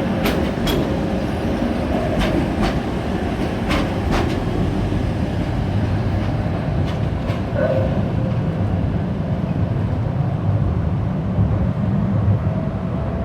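Tram running along the rails, a steady rumble with sharp clicks of the wheels over rail joints in the first few seconds.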